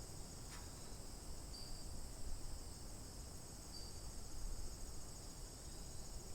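A steady, high-pitched insect chorus of the cricket kind, trilling without a break. A short, slightly lower chirp repeats every two seconds or so, over a low rumble.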